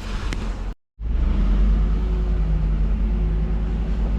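Truck engine and road rumble, steady and low. The sound drops out completely for a moment just under a second in, then carries on.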